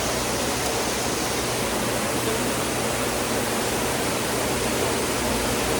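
A steady, even rushing noise that runs unbroken, with no clear tone or knocks in it.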